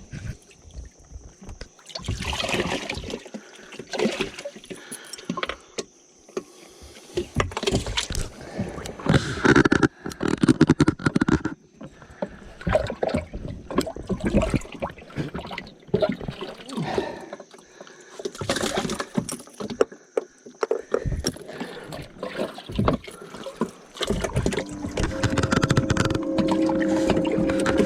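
Irregular knocks, clicks and clatter of handling gear aboard a fishing boat, with a steady humming motor coming in near the end.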